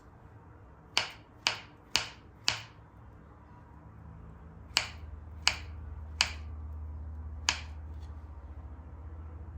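Eight sharp clicks or taps, four in quick even succession and then four more spaced further apart, with a low steady hum coming in about halfway.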